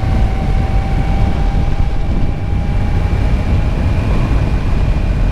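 Motorcycle being ridden at a steady pace: continuous engine and wind rumble, with a faint steady whine at a single pitch running over it.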